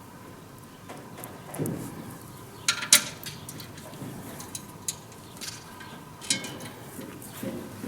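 Metal fan parts clinking and clanking as they are handled and fitted during assembly of a Vikhr-2000B grain heap fan. A handful of separate sharp metallic knocks, the loudest about three seconds in, with a few duller thuds between them.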